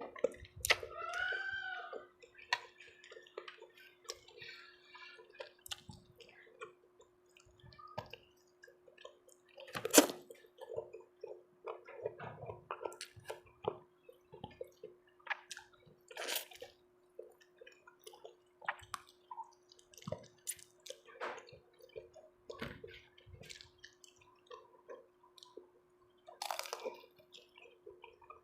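Close-miked mukbang eating: wet chewing and slurping with sharp clicks of a spoon on a bowl, over a faint steady hum.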